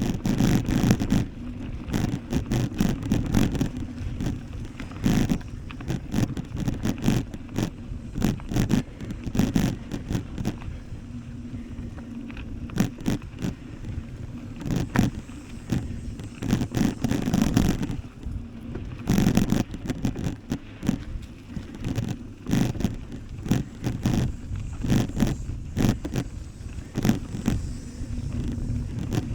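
A bicycle being ridden over rough ground: a low rumble with dense, irregular rattling and clicking from the tyres and the bike.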